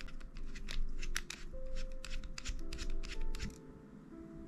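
Small precision screwdriver turning a screw in an airsoft shotgun's metal receiver: a quick run of sharp clicks and ticks that stops near the end. Soft background music plays under it.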